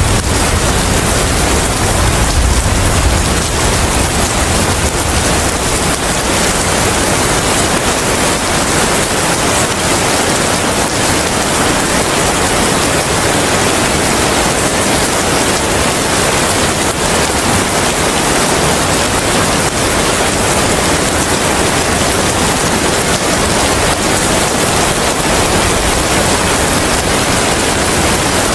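Steady heavy rain, a dense even hiss, with a low rumble that fades out over the first few seconds.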